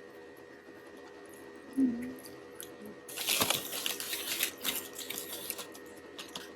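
Crinkling, rustling food packaging handled for about two seconds, starting about three seconds in, over a faint steady hum.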